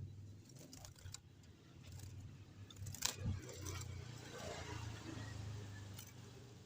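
Light metallic rattling and scattered clicks over a steady low hum, with a faint short chirp near the end.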